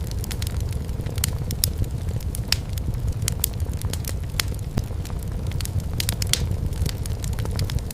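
Wood fire burning in a fireplace: firewood crackling with frequent, irregular sharp pops and snaps over a steady low rumble.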